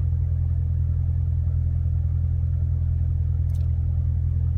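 2017 Corvette Z06's supercharged 6.2-litre LT4 V8 running steadily at a low, even speed, not revving, heard from inside the cabin as a low rumble.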